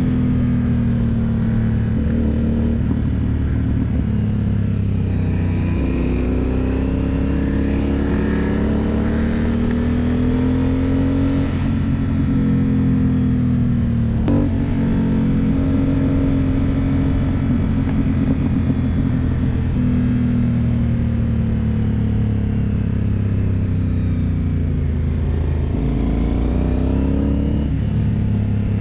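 Aprilia Dorsoduro 750's V-twin engine heard from onboard the motorcycle, its revs climbing and dropping several times through the gears. There is a sharp click about halfway through.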